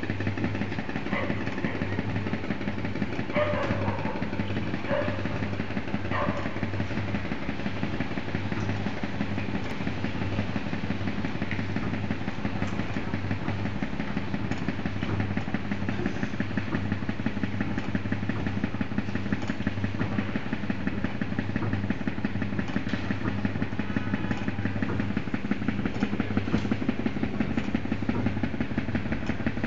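Bulldozer engine running steadily at a constant speed, an even, fast-pulsing hum with no revving.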